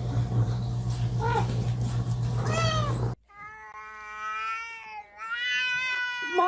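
Cat meowing: two short meows over a steady low hum, then two long, drawn-out meows.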